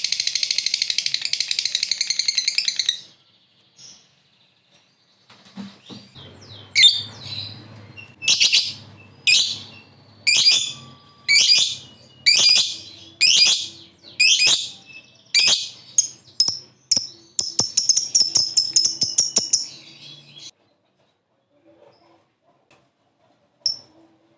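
Lovebird chattering its long 'ngekek': a rapid, high-pitched trill of chirps lasting about three seconds, then after a pause about ten separate high chirps roughly one a second, then another rapid trill about three seconds long, before it falls quiet.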